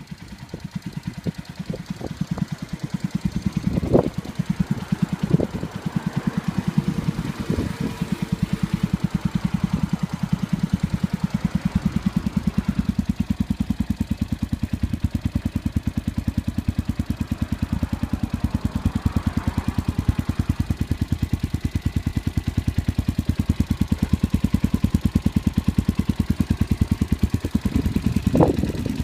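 Suzuki Grasstracker's air-cooled 250 cc single-cylinder engine idling through a Supertrapp aftermarket muffler with the air cleaner removed, giving an even, thumping exhaust beat. A few short sharp sounds stand out about 4 and 5 seconds in and near the end.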